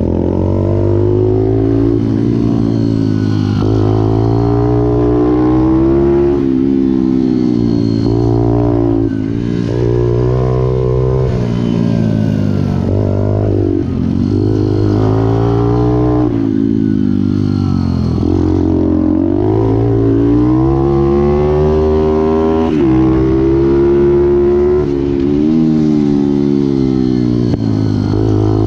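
Pit bike's small single-cylinder four-stroke engine ridden hard, its revs climbing and dropping over and over every second or two through gear changes and braking.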